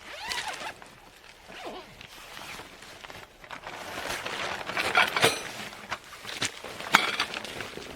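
Footsteps crunching in snow with rustling, in uneven strokes, the sharpest crunches in the second half.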